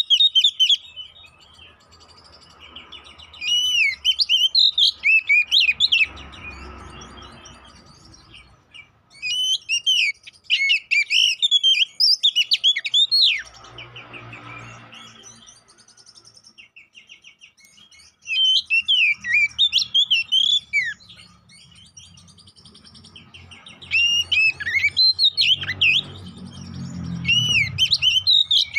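Male Oriental magpie-robin (kacer poci) singing in loud bursts of rapid, varied whistles and chattering phrases, about four bursts a few seconds apart with quieter pauses between them. This is the excited, combative song that keepers play to provoke other magpie-robins into singing.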